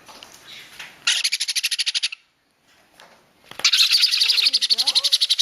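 Jenday conure chicks giving rapid, pulsing food-begging calls while being hand-fed, in two bursts, the second longer.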